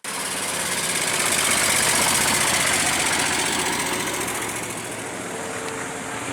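Bell 407 police helicopter flying by, its rotor and turbine making a steady, rapidly pulsing noise that grows louder about two seconds in and then eases off.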